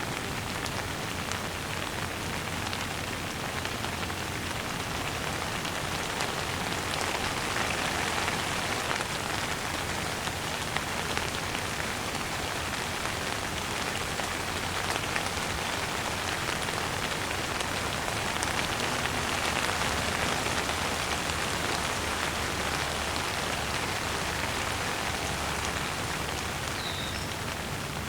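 Steady rain shower falling on a surface, a dense patter of drops with small swells in intensity about a third and two thirds of the way through.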